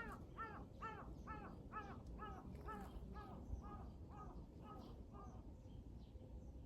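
A bird calling about a dozen times in a steady run, roughly two harsh calls a second, fading out about five seconds in, over a low steady outdoor rumble.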